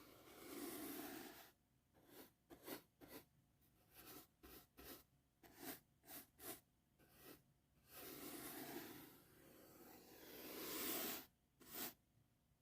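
Soft brush bristles swept in ASMR brushing strokes, close and soft. A long slow sweep at the start, then a run of short quick strokes, another long sweep from about eight seconds in, and two quick strokes near the end.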